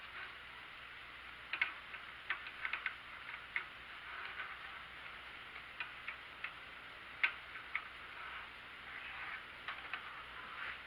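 Small steel T-nuts being handled and fitted into the T-slots of a Clarkson tool and cutter grinder's table: scattered, irregular light metallic clicks and taps, with a sharper click about seven seconds in.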